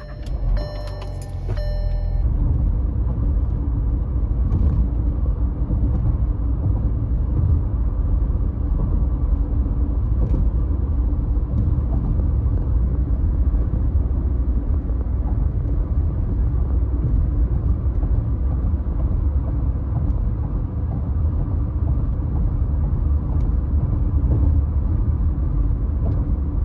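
A car being driven, heard from inside the cabin as a steady low engine and road rumble. A few short tones sound in the first two seconds.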